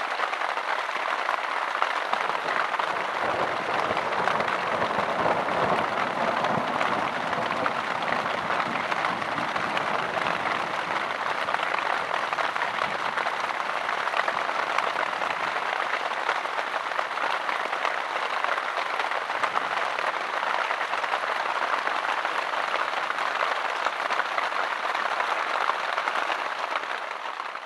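Heavy rain falling steadily on a tent, heard from inside the tent as a dense, even patter.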